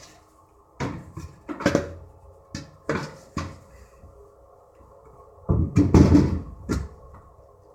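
Knocks and clunks from furnace parts being handled: a few light ones, then a louder clatter about five and a half seconds in.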